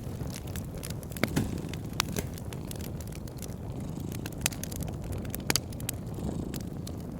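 Wood fire crackling in a fireplace: a steady low rumble of burning with irregular sharp pops and snaps, a few louder ones about a second in, at two seconds and past five seconds.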